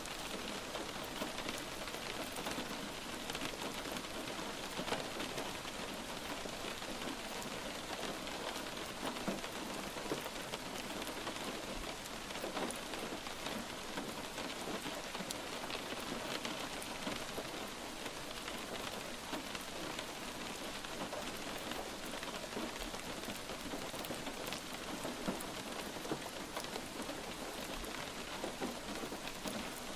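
Steady light rain falling on a surface, a constant patter with many small individual drops ticking through it.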